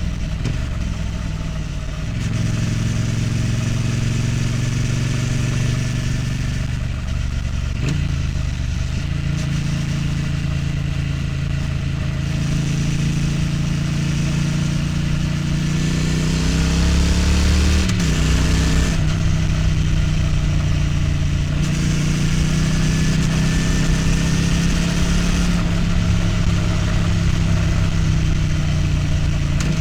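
Triumph Street Twin's 900 cc parallel-twin engine and exhaust heard from the rider's seat, pulling under load. Its pitch climbs steadily and drops abruptly at gear changes about 8 and 18 seconds in.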